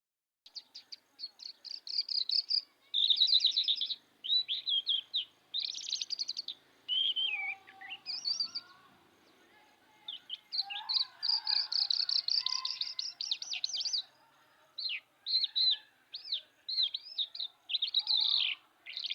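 A songbird singing a long, varied song of quick high chirps and trills in short phrases, with brief pauses between them.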